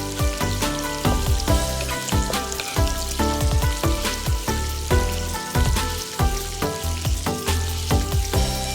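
Pork ribs sizzling as they fry in hot oil, a steady crackling hiss, with background music playing over it.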